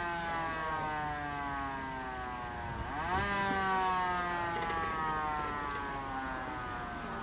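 A siren's long wail, its pitch sliding slowly down, then swooping up about three seconds in and falling away again.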